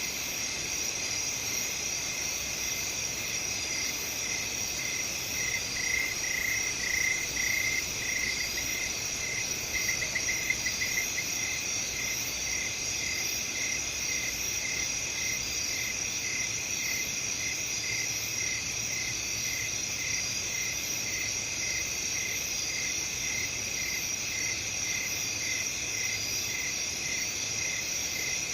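A chorus of crickets: a continuous high trill under regular, evenly spaced chirps. The chirping grows louder and quicker for a few seconds about a quarter of the way in, and briefly again soon after.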